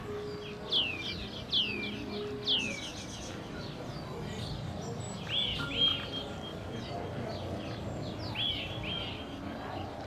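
Songbirds chirping: three loud, quickly falling chirps in the first few seconds, then a run of shorter arched chirps around the middle and again near the end.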